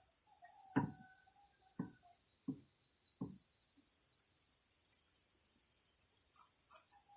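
Steady, high-pitched chorus of crickets with a fine rapid pulse, a little louder after about three seconds. Four soft knocks come in the first half, about a second apart.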